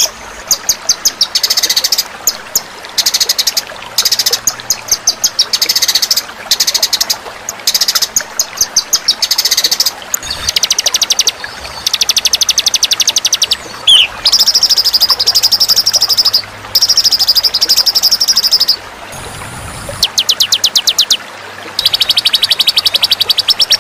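Songbird calls from a bird-song training (masteran) recording: fast, high-pitched rattling trills, first in short bursts and then in longer unbroken runs of several seconds. A brief falling note comes about a third of the way in, and the trills pause for about a second near 19 s.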